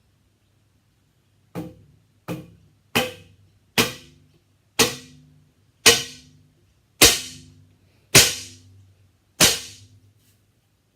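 Topoint R3 recurve bow dry-fired nine times in quick succession, with no arrow on the string: each release is a sharp snap of string and limbs with a short ringing twang, and the snaps grow louder across the run.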